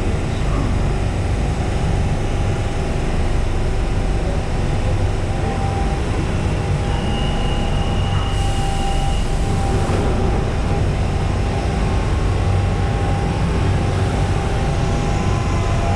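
Steady low rumble of a London Underground Central line train, with a brief high-pitched whine about halfway through and a short hiss just after it.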